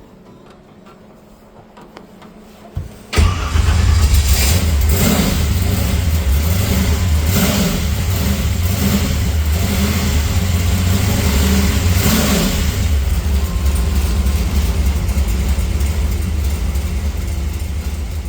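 Pro-street hot rod's aluminum 350 small-block V8 catches and fires about three seconds in, then runs on with a deep steady idle and a few throttle blips.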